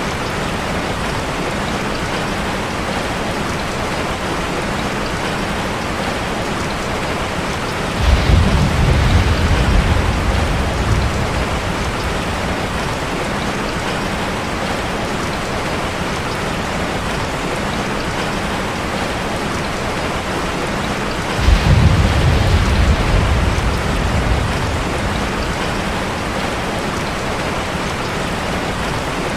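Steady rain drumming on a metal roof. Twice a low rumble of thunder breaks in suddenly, about eight seconds in and again near twenty-two seconds, each rolling for a few seconds and fading.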